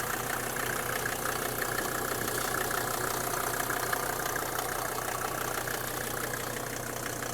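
Mercedes OM605 2.5-litre five-cylinder turbo diesel with intercooler, idling steadily in a G-Class 250GD.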